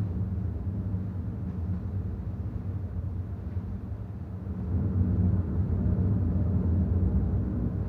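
A low, steady rumble that grows louder about five seconds in.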